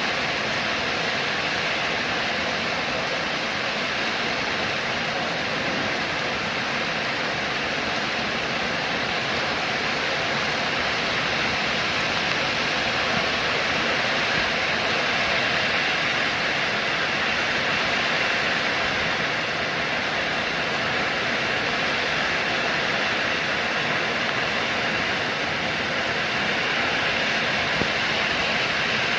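Steady rain, an even hiss without breaks or single drops standing out.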